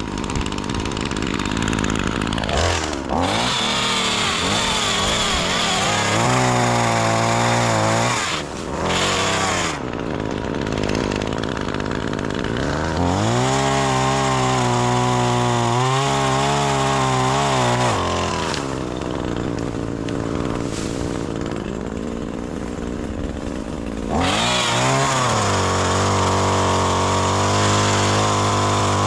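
Gas chainsaw cutting branches, its engine revving up to full throttle and holding for several seconds, then dropping back to idle, several times over.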